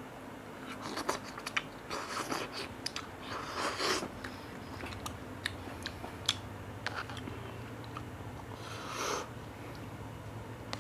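A person eating cup noodles: chewing and mouth noises, with scattered sharp clicks and short noisy bursts, busiest in the first few seconds and again about nine seconds in.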